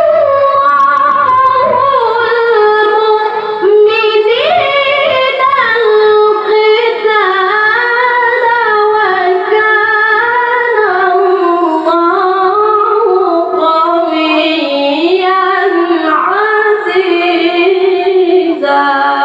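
A child qari's voice in melodic Qur'an recitation (tilawah): one long, ornamented phrase sung in a single breath, its high pitch winding up and down, until it stops at the very end.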